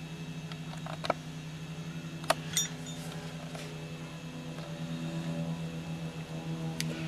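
A few sharp metal clinks of bolts and hand tools being handled, over a steady low hum with faint background music.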